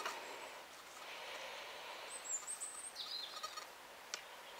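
Songbirds chirping: scattered short high notes, with a quick run of twittering about halfway through, over a faint steady outdoor hiss. A single sharp click near the end.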